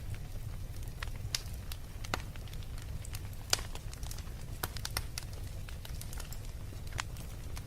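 Fire crackling in a fireplace: irregular sharp pops and snaps over a steady low rumble, with the loudest pop about three and a half seconds in.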